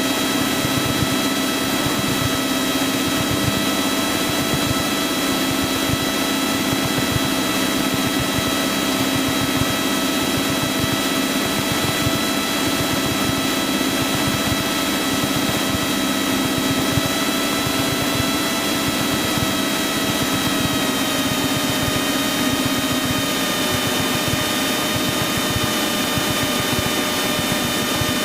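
Cessna 172's piston engine and propeller droning steadily, heard inside the cabin while descending on approach to land. The pitch drops slightly twice in the last third.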